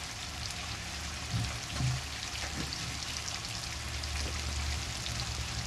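Boneless mutton, liver and tomato masala sizzling steadily in a steel kadai, a soft even crackle with a steady low hum underneath.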